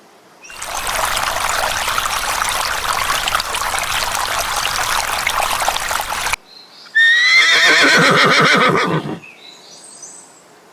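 A steady rushing noise for about six seconds cuts off suddenly, then, after a short pause, a horse gives a loud whinny lasting about two seconds, quavering and falling in pitch.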